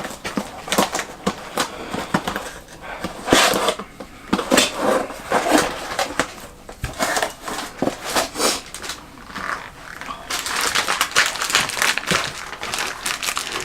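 Handling of a parts box and packaging: irregular rustling with scattered clicks and light knocks, getting denser in the last few seconds.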